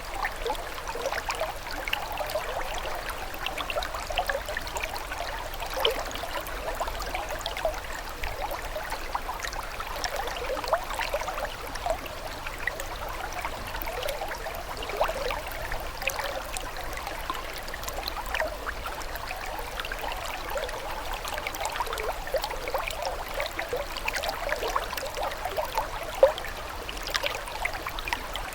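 Small stream or brook trickling and babbling over stones, a steady run of small bubbling splashes.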